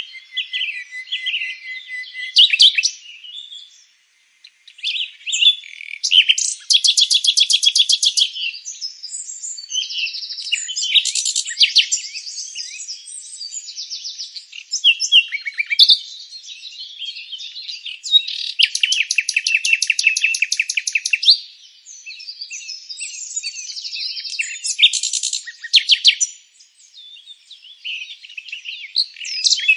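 Several songbirds singing and chirping, their phrases overlapping, with a few fast trills of rapidly repeated high notes between shorter chirps and brief lulls.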